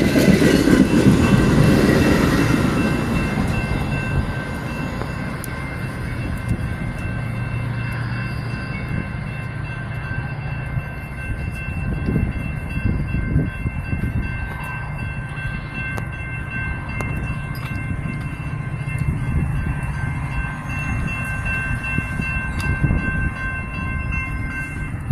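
Metra bilevel commuter train cars rolling past close by with a loud rumble that fades over the first few seconds as the train pulls away, leaving a lower steady rumble. A steady high ringing from the level crossing's warning bells sounds over it until near the end.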